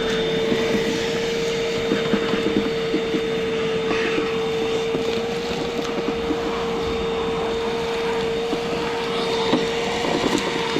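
Vacuum cleaner running steadily with a constant whine, fitted with an extension wand and sucking debris out of the bottom of an air-conditioner condenser unit, with scattered small clicks and rattles of debris being pulled in.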